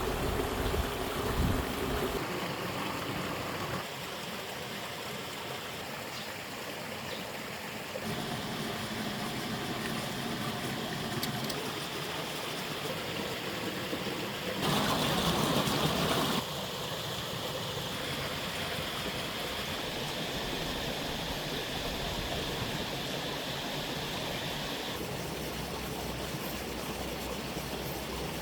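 Running water and outdoor ambience, made of short clips that change abruptly several times. The loudest is a rush of noise lasting under two seconds about halfway through.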